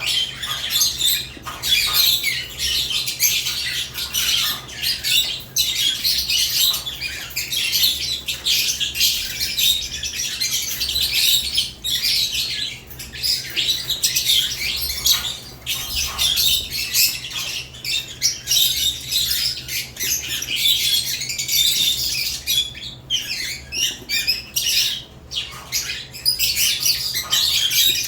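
A cage of lovebirds chirping and squawking nonstop, with many shrill calls overlapping, over a steady low hum.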